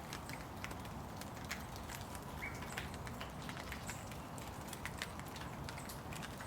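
Steady rain falling, with many individual drops tapping irregularly on nearby surfaces over a constant hiss.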